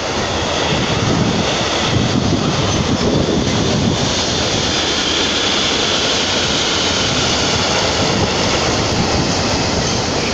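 A train moving past with a steady, loud rumble and rush, easing slightly near the end.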